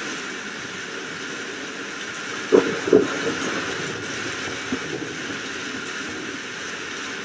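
Steady rain falling, an even hiss, with two sharp knocks close together about two and a half seconds in.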